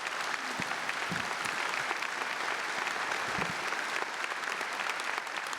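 Audience applauding steadily, a sustained round of clapping.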